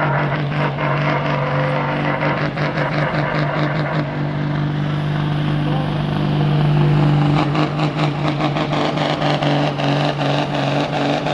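Semi truck's diesel engine working hard under steady load while pulling a weight-transfer sled, holding a steady pitch with rapid pulsing. A faint high whistle rises near the end.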